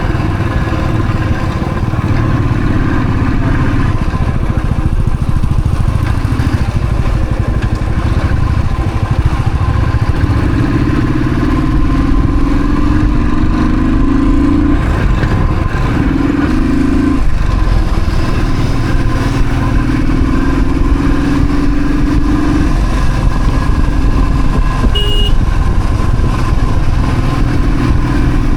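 Royal Enfield Thunderbird's single-cylinder engine running on the move, its pitch climbing steadily several times as it pulls up through the revs. There is a brief high beep near the end.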